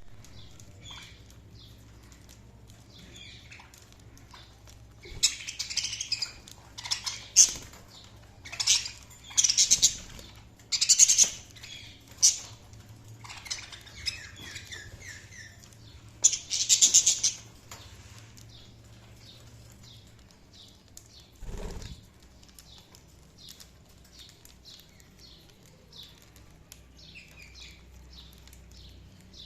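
Budgerigars chirping and warbling in quick bursts, loudest and busiest through the first half, then softer scattered chatter. A single short dull thump comes about two-thirds of the way through.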